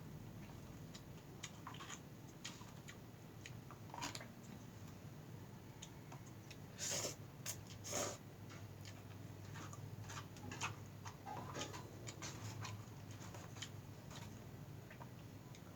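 Close-miked eating sounds of a person eating mixed noodles: soft chewing and many small clicks, with two short louder noisy sounds about seven and eight seconds in.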